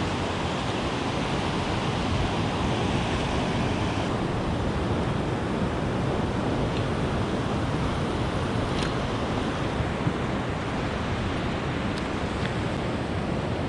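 Ocean surf washing onto the beach, a steady rush of breaking waves, with wind on the microphone.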